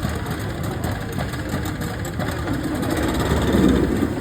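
Speedboat engine running steadily with a low rumble, growing louder for a moment about three and a half seconds in.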